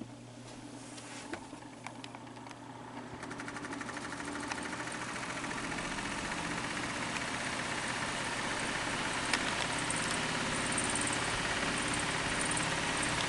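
Fan with badly worn bearings spinning up, its whirring running noise growing steadily louder over about ten seconds.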